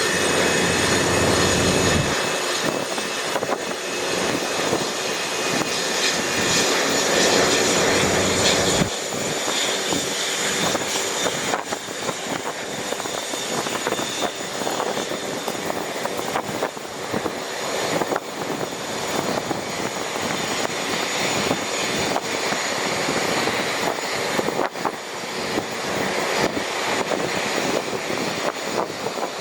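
Airbus A320 jet engines running steadily: a continuous rushing noise with several high, steady whining tones over it.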